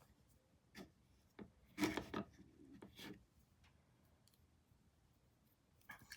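A few short scrapes and taps of painting: a paintbrush working paint on canvas and handling of paint supplies. The sounds are loudest about two seconds in, with one more near the end.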